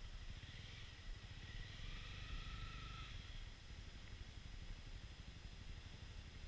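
Faint, steady low rumble of a Honda Africa Twin CRF1000L's parallel-twin engine running at low revs.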